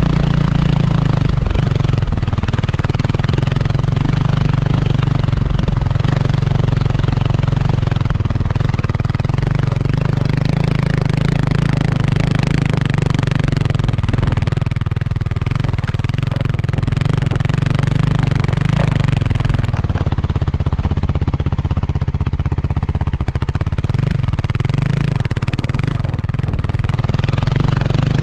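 Kawasaki KLX300R dirt bike's single-cylinder four-stroke engine running at fairly steady revs while riding. A steady noisy rush runs over it.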